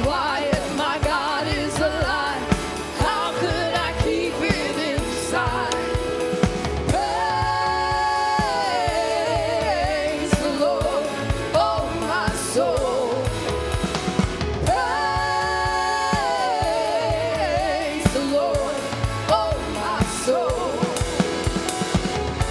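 Upbeat gospel worship music: a band with a drum kit keeps a steady beat under a melodic line that holds long, wavering notes twice.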